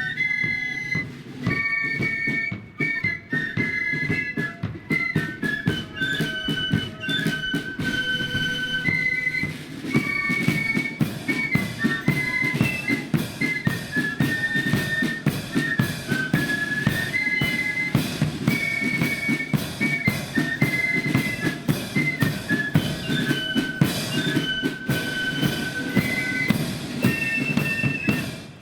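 Marching flute band playing a tune: flutes carry a high melody over rapid, dense snare and bass drumming, breaking off briefly at the very end.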